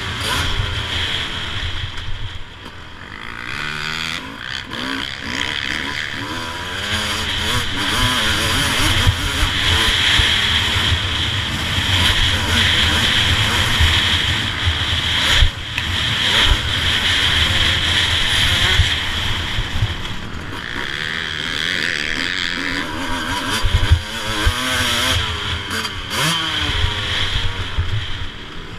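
A 250 cc motocross bike's engine, heard from a camera mounted on the bike, revving up and down again and again as the bike shifts and accelerates around the track, with wind rush on the microphone.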